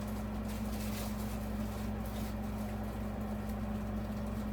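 A steady low electrical hum, with a few faint clicks and rustles of parts being handled.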